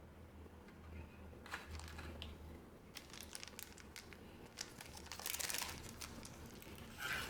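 Trading card booster pack wrappers crinkling as they are handled, in scattered short crackles with one longer crinkle a little past the middle.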